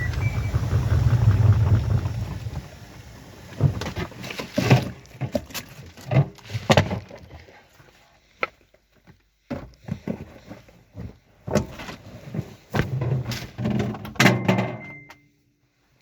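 Washing machine running with a low hum and fast rattling for the first couple of seconds, then scattered clunks and knocks with quiet gaps. A short electronic beep sounds near the end.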